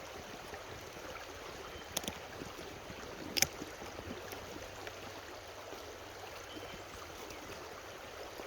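A creek running, a steady rush of water. Two short sharp clicks cut through it, about two seconds in and again, louder, about three and a half seconds in.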